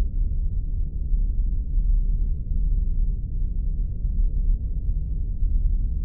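Spaceship ambience sound effect: a steady, deep rumbling drone that stays even throughout.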